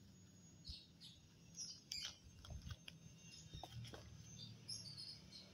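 Faint, scattered short high chirps of small birds over a steady low hum, with a few light taps and scuffs as kittens tussle on rubber sandals.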